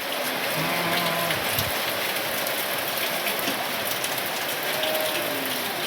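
Steady heavy rain falling, a dense even hiss.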